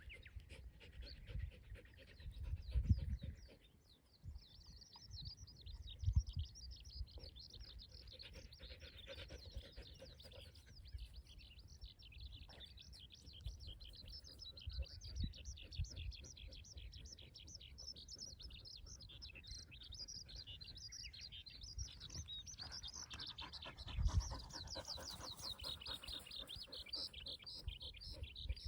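Birds chirping and trilling almost without a break, with a dog panting close by and a few low thumps.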